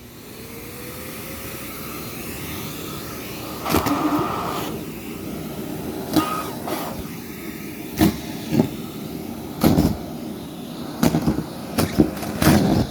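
Vacuum cleaner switched on, its motor spinning up with a rising whine over the first couple of seconds, then running steadily. It is punctuated by brief louder surges every second or so as the vacuum is worked.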